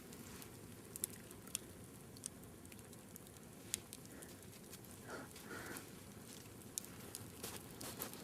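Wood fire burning, faint crackling with a few sharp pops from the burning logs.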